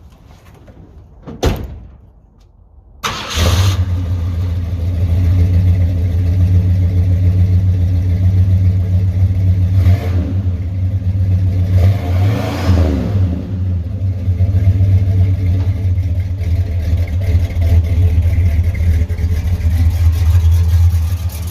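1977 Ford Ranchero's 351 Windsor V8 through true dual exhaust: a sharp click about a second and a half in, then the engine starts about three seconds in and settles into a deep, steady idle. Around the middle it is revved briefly, rising and falling.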